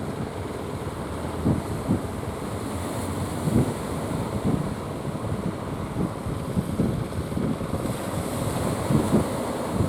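Strong wind buffeting the microphone in irregular gusts over the continuous wash of surf.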